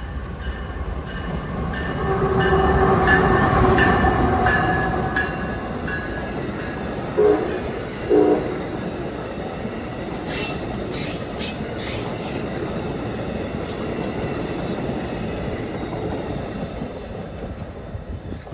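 A passenger train passing at speed with steady rail and wheel noise and a pitched whine in the first few seconds. Two short loud pitched blasts about a second apart come near the middle, and a run of wheel clicks over the rails follows later as the train goes by.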